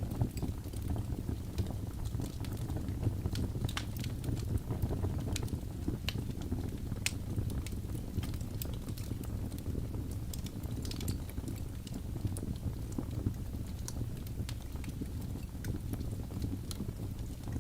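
Wood fire burning in a fireplace: a steady low rumble of the flames with irregular sharp crackles and pops scattered through it.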